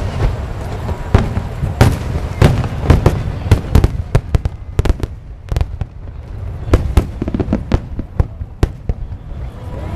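Aerial fireworks bursting in quick, irregular succession: many sharp bangs over a low rumble, dense at first and thinning out after about four seconds.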